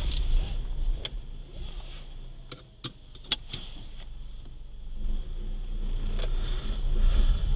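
Car on a city street: a low engine and road rumble that fades for a couple of seconds, with a few sharp clicks, then builds up again.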